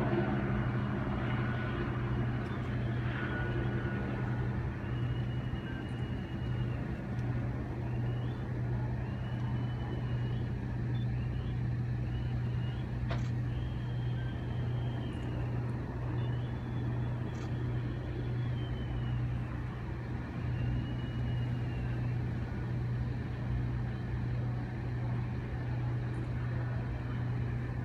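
Steady low engine drone, with a few faint short high gliding tones in the middle.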